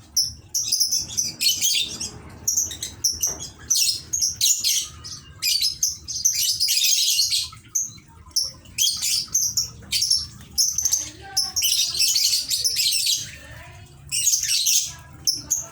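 Lovebirds chattering in shrill, rapid chirps, coming in dense bursts with short pauses between them.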